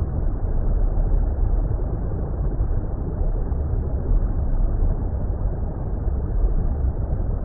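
Steady, low, muffled water rumble, like being underwater, with nothing in the treble and no change in level.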